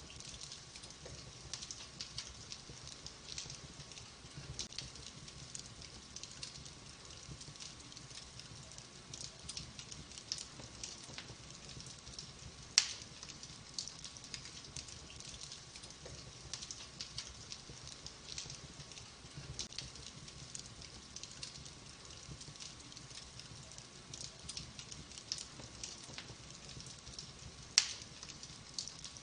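Wood fire burning in a fireplace: logs crackling with a constant scatter of small ticks, and two sharp, louder pops, one about halfway through and one near the end.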